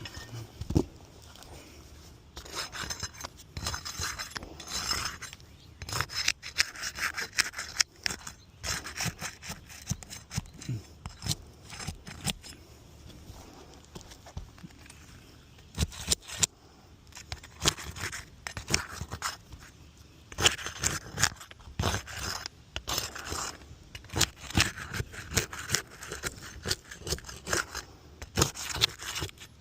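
Hand tool scraping and rubbing against asphalt roof shingles, in irregular on-and-off strokes mixed with sharp clicks and taps.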